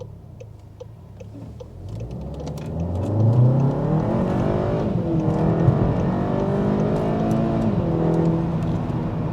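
Car engine heard from inside the cabin, pulling away hard after light regular ticks over a quiet idle. From about two seconds in the revs climb, drop at an upshift of the paddle-shift gearbox around five seconds in, climb again, and drop at a second upshift near the end.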